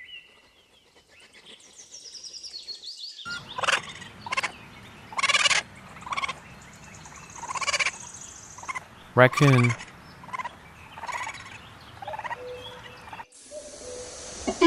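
Hedgehog calls: a run of short, pitched calls, about one a second, over faint high chirping.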